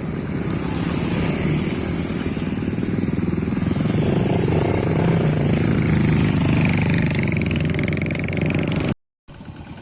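Motorcycle engine running steadily while riding, loud and close.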